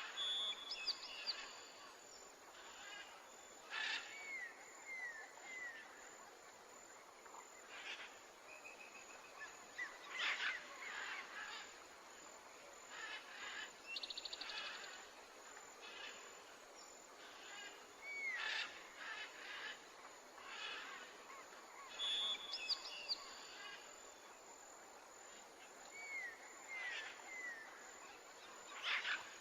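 Birds chirping and calling, with runs of short curving call notes, over a faint steady rush of flowing river water.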